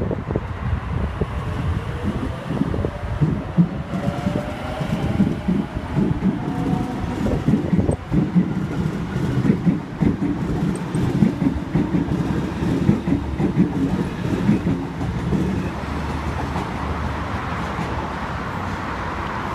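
Sydney Trains Waratah (A set) electric train pulling out, its traction motors whining up in pitch as it gathers speed while the wheels clatter over the rail joints. The clatter eases into a steady rumble over the last few seconds.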